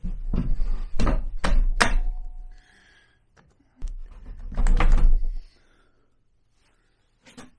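Tools and parts being handled during scooter engine work, making sharp knocks and thunks: a quick run of about four about a second in, and another cluster around five seconds in.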